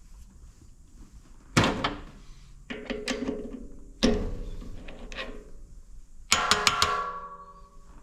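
Metal parts and tools clanking at a metal lathe, each knock leaving a ringing tone: a sharp clank about a second and a half in, a few more around three and four seconds, and a quick run of taps near the end.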